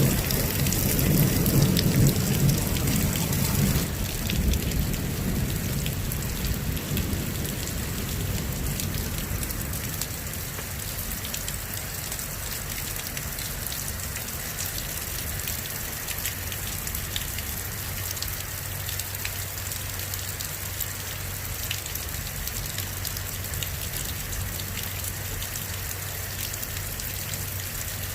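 Heavy rain pouring down, a dense steady hiss with many small drop ticks. A low rumble of thunder in the first few seconds dies away over the next several seconds, leaving the rain alone.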